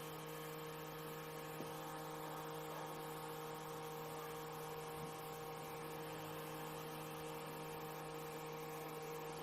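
Steady electrical hum with several fixed tones, the lowest and strongest a low drone, over faint hiss.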